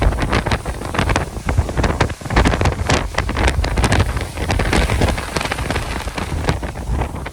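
Strong, gusty Santa Ana wind buffeting the microphone: a heavy low rumble that surges and eases, with many short crackles and clatters throughout.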